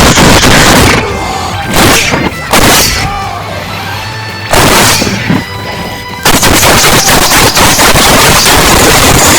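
Fight sound effects made with a person's mouth: explosive blast noises and rapid hits, over background music. Separate blasts come about a second in, near two and two and a half seconds and near five seconds, then a long rapid barrage from about six seconds on.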